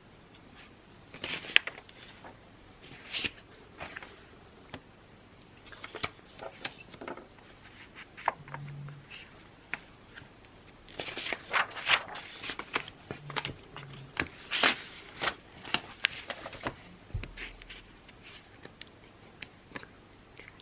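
Pen writing on paper: irregular scratching strokes with small clicks, busiest a little past halfway through.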